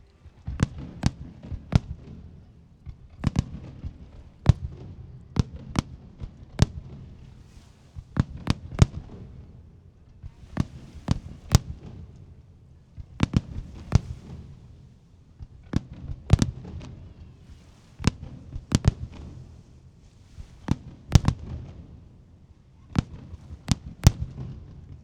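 Aerial firework shells going off in a steady, irregular barrage of sharp bangs, about one or two a second, with a low rumble between them.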